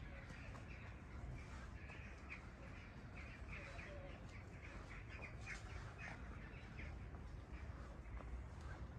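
Birds calling outdoors: a scattered series of short, repeated calls over a faint low rumble.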